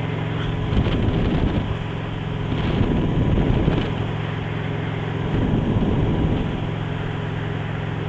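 Honda VT750 V-twin motorcycle engine running steadily while riding, with wind rushing over the microphone and swelling several times.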